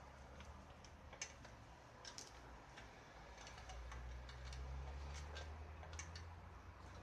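Faint, irregular light clicks and taps over a low hum that swells a little in the middle.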